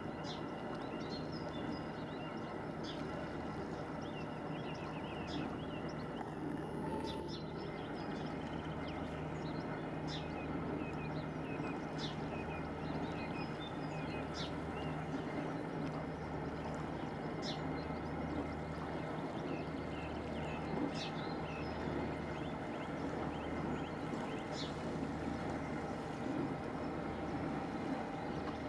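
The ferry Loch Striven's engines running steadily underway, a constant drone with a slow low throb, with short high calls breaking in every second or two.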